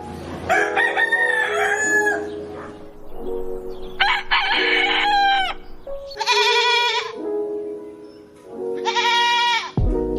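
Rooster crowing about four times, each crow a second or two long, over background music with steady chords.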